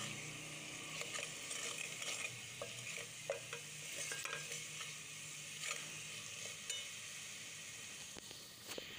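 Onion-and-spice masala sizzling in hot oil in a steel pot, while a steel spoon stirs it and scrapes and clicks against the pot. The masala is being fried down until the oil separates from it.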